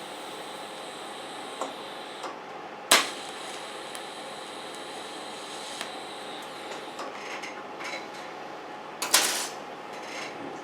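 Metal exhaust-pipe parts being handled and tack-welded over a steady hum: a sharp metallic knock about three seconds in, and a short crackling burst of a tack weld near the end.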